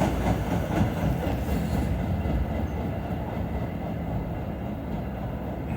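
MBTA commuter rail train rolling along the platform track as it slows for its stop: a steady low rumble of wheels on rail. The higher hiss fades about two seconds in and the sound grows slightly quieter.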